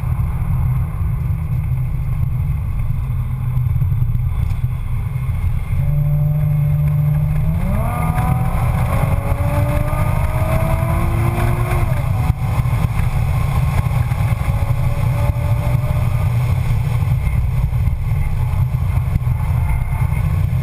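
Nissan 350Z's 3.5-litre V6 running at speed, heard from inside the cabin as a steady drone. About eight seconds in, the engine note rises sharply and keeps climbing for several seconds as the car accelerates.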